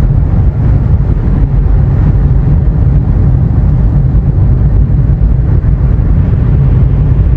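Loud, steady low rumble of a moving vehicle, with no distinct events.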